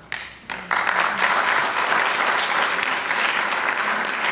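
Audience applauding: a few scattered claps at first, then full steady clapping from under a second in.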